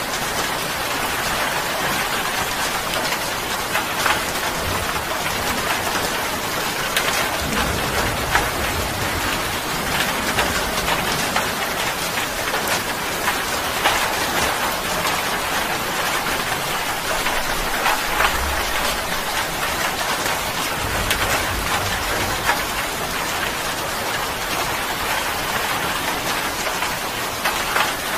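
Heavy rain pouring steadily and splashing on a wet surface, with sharp single drop spatters now and then. A few low rumbles sit underneath.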